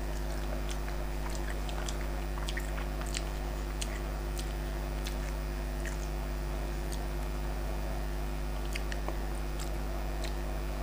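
A person chewing food with the mouth closed, close to the microphone, with small wet clicks scattered throughout. A steady low hum runs underneath.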